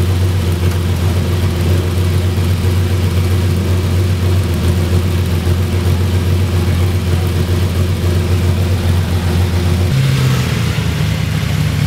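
Lamborghini engine running at a steady idle. About ten seconds in the engine note shifts to a different pitch and more hiss comes in.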